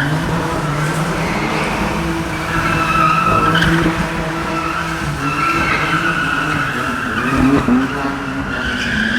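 A car drifting, its engine held high in the revs while the tyres squeal steadily against the tarmac.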